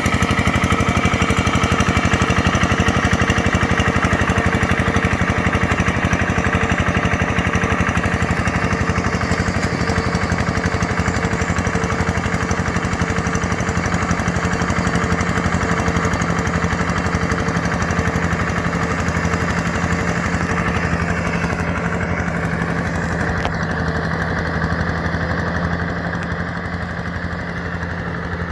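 Yanmar EF725T tractor's diesel engine running steadily with a rapid even firing pulse. About three quarters of the way through, the higher hiss drops away and the sound eases slightly.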